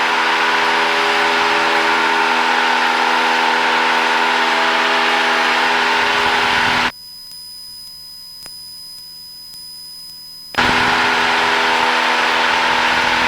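Cessna 172's engine and propeller at full climb power, a steady loud drone heard inside the cockpit. About seven seconds in it drops suddenly to a faint hum for roughly three and a half seconds, then cuts back in at full level.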